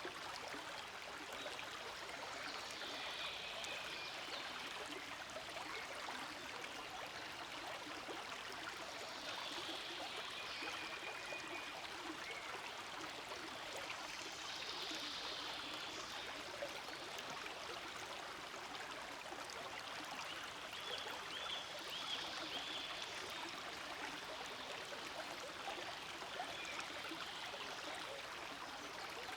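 Small forest stream flowing steadily over rocks, with a few faint high chirps now and then.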